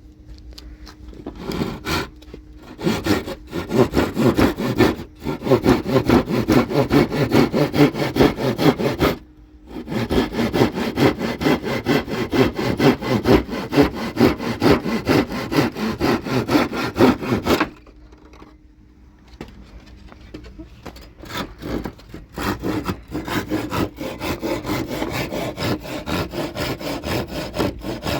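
A saw cutting through wood in quick, steady strokes, stopping briefly about nine seconds in and for a few seconds around eighteen seconds before sawing resumes.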